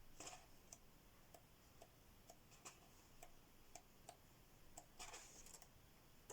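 Near silence with faint, evenly spaced ticking about twice a second, and soft rustles of paper colouring-book pages being handled near the start and again about five seconds in.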